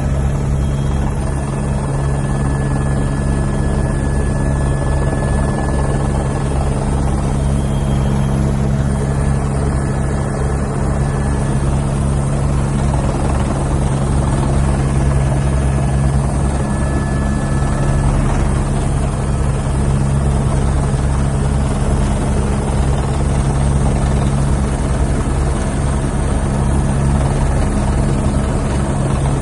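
Police helicopter running at a steady level, its rotor blades beating in a fast, even chop over a low engine hum.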